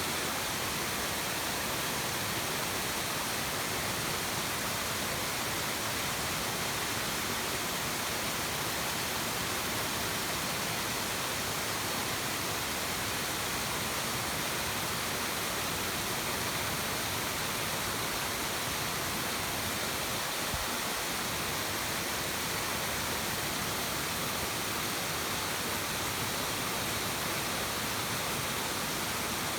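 Mountain valley stream, its water rushing with a steady, even sound.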